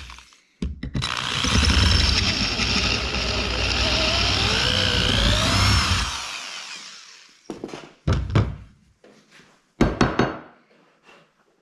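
Power drill running under load, drilling out a bolt hole in a metal mounting bracket, with a wavering squeal from the bit for about five seconds before it winds down. A few short knocks follow.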